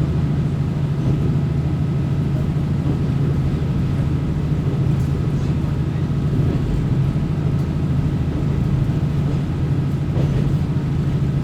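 Diesel railcar running under way, heard from inside the passenger cabin: a steady, even low engine drone with running noise underneath.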